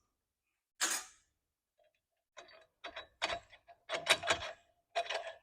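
Metal clicks and taps as the stopper on a Hafco combination guillotine and press brake is set. There is a short scrape about a second in, then a run of irregular clicks over the last three seconds.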